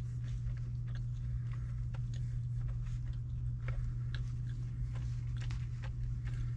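Someone chewing takeout noodles and chicken, with small irregular clicks of a plastic fork against a plastic takeout bowl, over a steady low hum.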